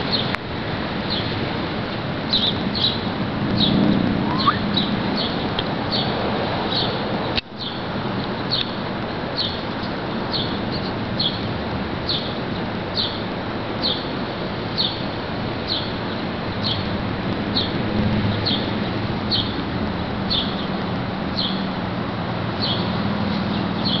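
A small bird chirping over and over, short high chirps at a fairly even pace of about one to two a second, over a steady outdoor background hiss.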